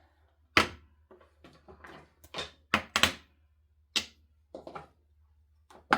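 Clear acrylic stamping blocks being handled and set down on a desk: about seven sharp plastic clacks and knocks, irregularly spaced.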